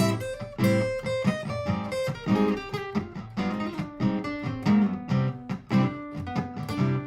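Martin GPCPA4 acoustic guitar played through a looper, with plucked and strummed notes in a steady rhythm.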